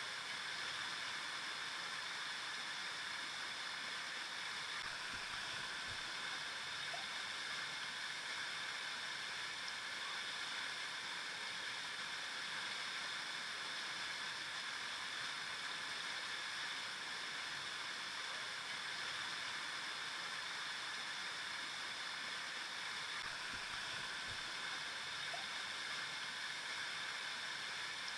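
Flowing river water, a steady even rush without breaks.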